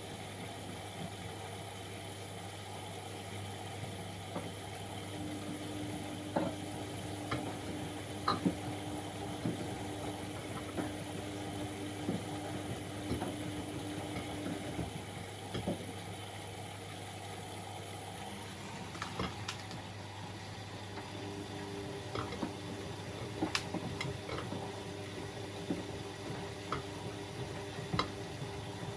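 Bauknecht WA Aquaton 1400 front-loading washing machine in its wash phase: the drum motor turns the drum with a steady hum, pauses for several seconds and then starts again, as it does when the drum reverses direction. Water swishes in the drum, with scattered small clicks and knocks.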